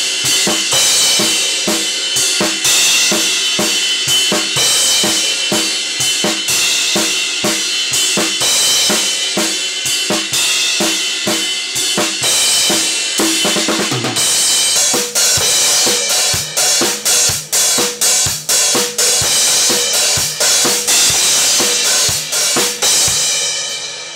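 Acoustic drum kit played in a recording take: a steady beat of kick and snare hits under a dense wash of cymbals, the pattern changing about halfway through, with the cymbals ringing out at the end.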